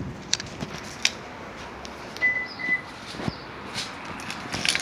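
Footsteps with scattered light clicks and knocks, and a short high two-part chirp a little past halfway.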